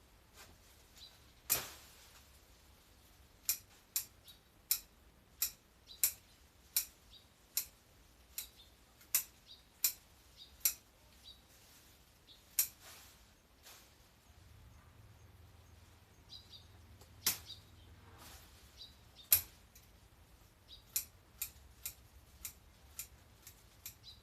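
Hand pruning shears snipping through branches and stems, a sharp click with each cut, in a steady run of about one and a half cuts a second with pauses between runs.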